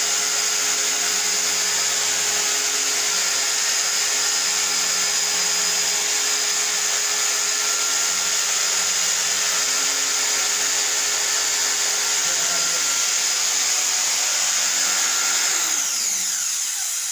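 Electric motor running steadily at high speed with a whine. It is switched off near the end, winding down in pitch to a stop.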